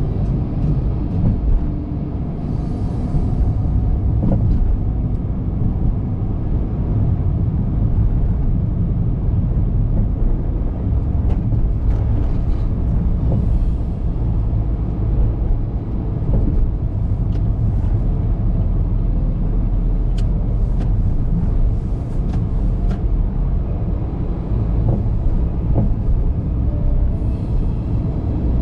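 Steady low rumble of a car driving, tyre and road noise heard from the moving vehicle, with a few faint ticks.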